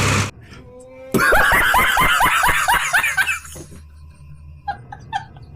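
Engine noise cuts off abruptly just after the start. About a second later comes a burst of rapid laughter: a quick, even run of about a dozen rising 'ha' pulses over roughly two seconds.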